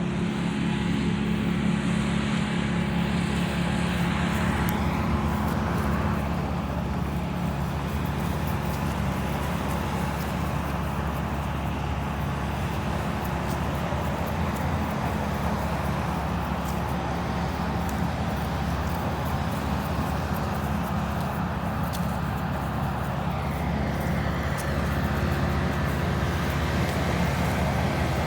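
Road traffic: vehicles passing by, two of them plainly sweeping past about 5 seconds in and again near the end, over a steady low engine hum.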